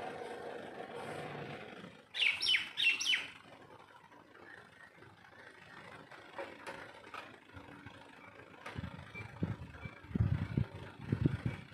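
A bird calls, a quick run of loud chirping notes about two seconds in. Faint scattered chirps follow. A faint steady hum fills the first two seconds, and low irregular rumbling comes in over the last few seconds.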